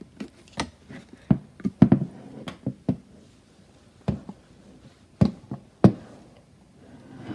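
Irregular sharp knocks and clicks of things being handled, about a dozen over several seconds with gaps between them.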